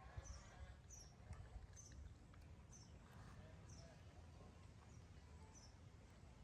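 Faint outdoor background with a bird's short, high, falling chirps repeating about once a second, over a low steady rumble.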